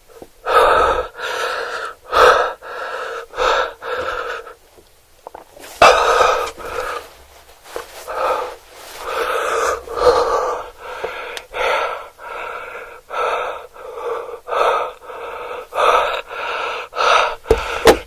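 A person breathing hard in quick, loud gasps, over and over with brief gaps and one longer pause a few seconds in.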